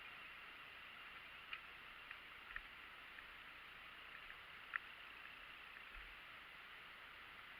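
Near silence: a faint steady hiss with a few small clicks, the loudest about five seconds in.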